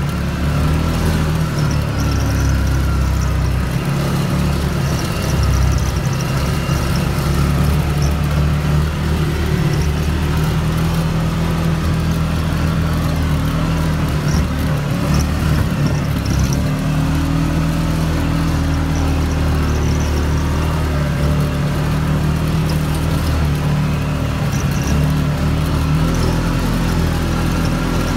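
CFMOTO off-road vehicle's engine running steadily at trail speed, its pitch rising and falling a little with the throttle.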